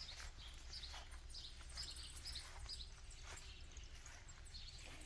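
Faint chirping of small songbirds: short, high calls repeating every half second or so, over a low steady background rumble.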